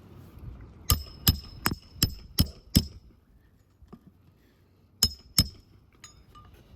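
Hammer driving roofing nails into asphalt shingles: six quick strikes in a row, then two more a few seconds later, each with a short metallic ring.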